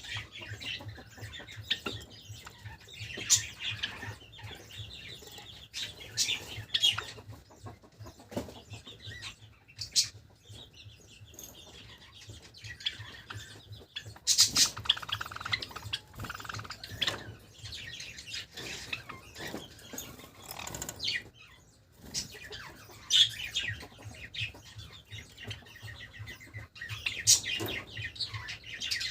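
Pet Java sparrows chirping and clucking: many short high calls and sharp clicks come in bursts, some busy stretches and some sparse, over a faint steady low hum.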